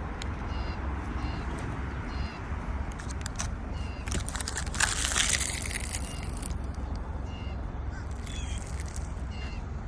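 A bird chirping repeatedly, short high notes about once a second, over a steady low rumble. About five seconds in, a brief louder rush of noise.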